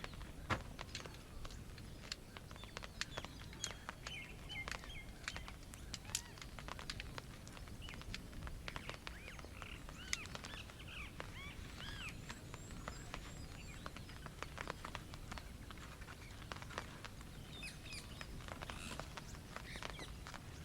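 Small birds chirping in short, arching calls, in bouts a few seconds apart. Many small clicks and snaps run underneath.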